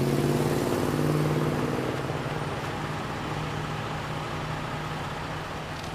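A motor vehicle's engine running close by, a steady hum that is loudest in the first couple of seconds and then fades away, over general street traffic noise.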